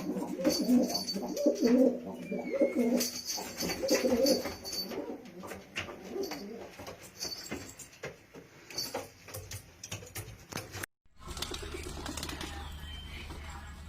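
Domestic pigeons cooing, repeated low calls over the first five seconds or so, with scattered clicks and scuffs.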